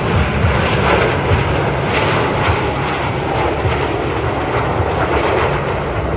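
Fighter jet engines running loud and steady, a dense rushing noise with no rise or fall, as the jet display team flies overhead.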